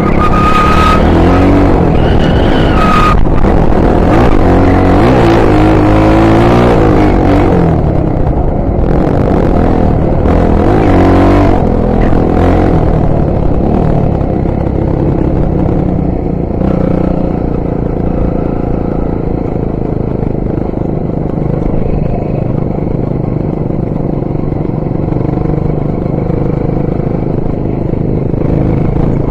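Honda XR 250 Tornado's single-cylinder four-stroke engine running under way, revving up and down repeatedly through the first dozen seconds or so, then settling into a steadier, slightly quieter run.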